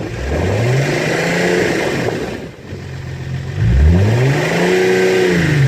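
Audi 3.0 TDI V6 diesel engine revved twice in free blips, rising and falling back to idle each time, the second rev higher, with its injector seals freshly replaced. The tapping from the failed injector copper washer is gone.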